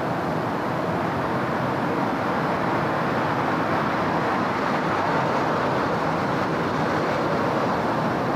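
City road traffic: a steady wash of passing vehicles and tyre noise, swelling slightly around the middle.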